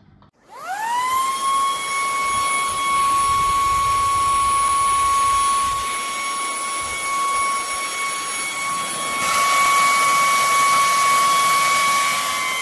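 Cecotec Scoba 2100 Twice cordless stick vacuum's brushless digital motor switching on about half a second in, its whine rising in pitch and settling into a steady high whine over rushing air. The air noise grows louder about nine seconds in.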